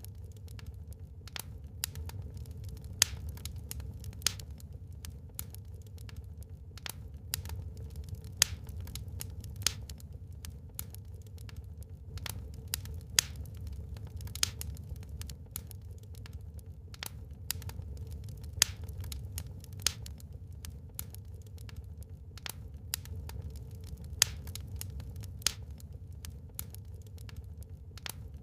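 Wood fire burning in a fireplace, crackling with irregular sharp snaps and pops, a few much louder than the rest, over a steady low rumble.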